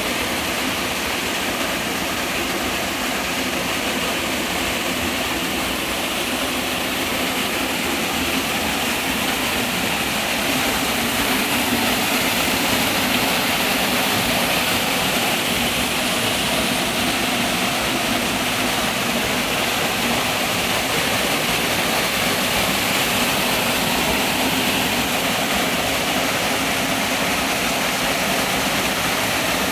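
Waterfall: a steady rush of falling water, with no breaks or changes.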